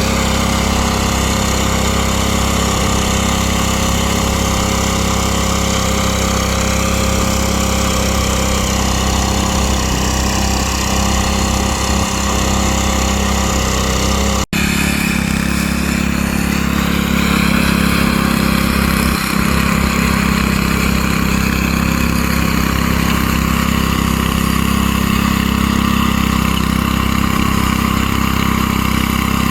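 Small petrol engine of a garden tiller running steadily while breaking up soil. It cuts out for an instant about halfway through, then runs on.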